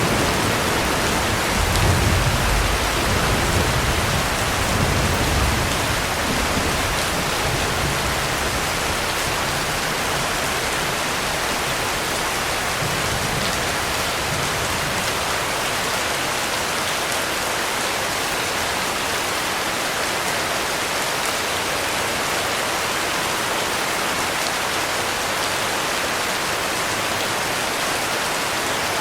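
Heavy rain falling steadily in a dense, even hiss. A low rumble of distant thunder swells and fades in the first few seconds.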